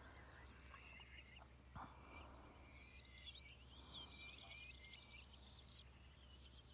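Near silence with faint bird chirping: many quick high chirps and twitters in a continuous chatter. A couple of soft clicks come about one and a half and two seconds in.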